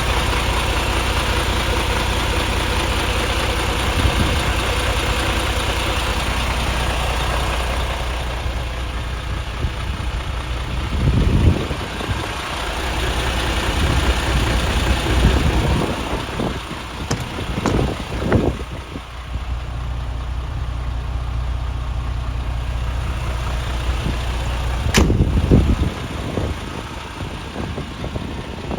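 MAN TGX 18.540 truck's 12.4-litre straight-six diesel idling steadily. Several irregular bumps and knocks come over it in the second half, with a sharp click near the end.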